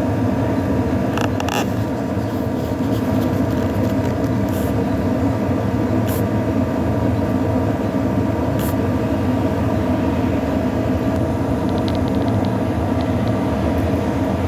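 A steady droning hum with several even tones, as of a running motor or machine, with a few faint clicks and a brief rapid ticking near the end.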